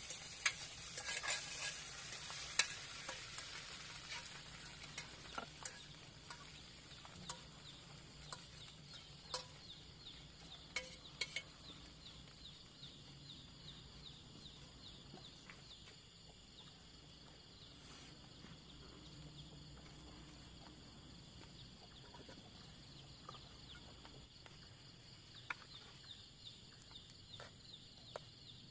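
Food frying in a pan, the sizzle loudest in the first few seconds and then dying down, with scattered sharp clicks of a utensil stirring and scraping against the pan.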